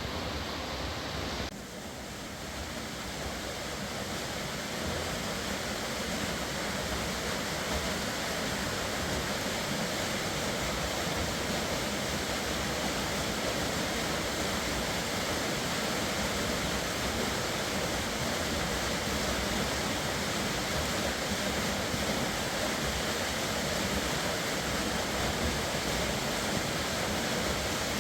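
Fast-flowing river water rushing steadily. The sound dips briefly about a second and a half in, then builds back up over a few seconds and holds steady.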